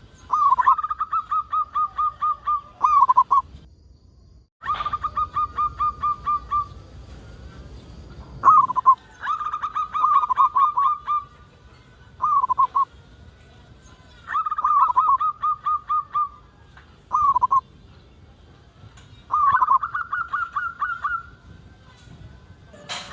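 Zebra dove (perkutut) cooing: phrases of rapid, evenly spaced coos, each a second or two long, several of them followed by a short closing burst, repeating every few seconds.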